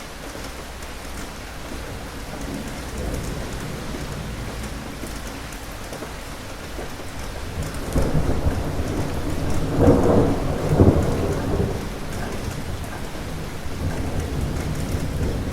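Steady rain falling, with a roll of thunder that builds about halfway through, is loudest a little later and then slowly dies away under the rain.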